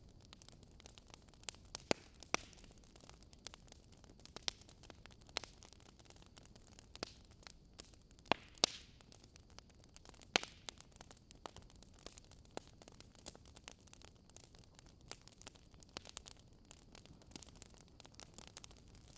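Wood fire crackling in a fireplace: irregular sharp pops and snaps over a faint steady hiss, with a few louder pops about 2, 8 and 10 seconds in.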